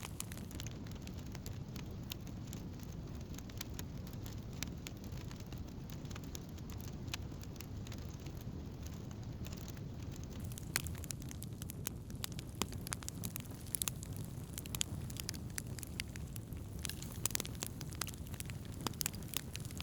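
Wood campfire crackling: scattered sharp pops and snaps over a low, steady rumble, with the pops coming more often in the second half.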